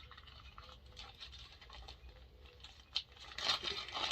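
Small parts being handled and put into a plastic bag: light clicks and rustling, with a sharp click about three seconds in and a louder rustle just after.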